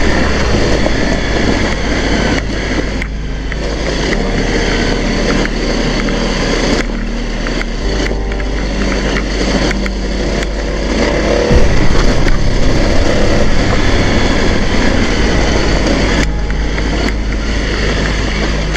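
Honda CRF250L single-cylinder four-stroke engine running steadily as the bike rides over a rough gravel dirt track, mixed with wind rush on the camera microphone and scattered knocks from the bumpy ground.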